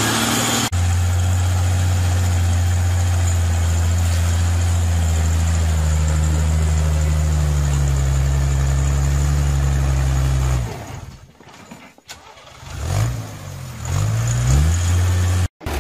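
A tractor's diesel engine runs hard under load, its pitch sagging slowly, then falls away abruptly about ten seconds in. It is then revved up and down several times before holding a steady note again.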